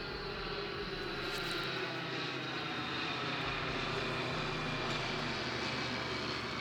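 An aircraft passing overhead, a steady engine drone whose tones fall slowly in pitch.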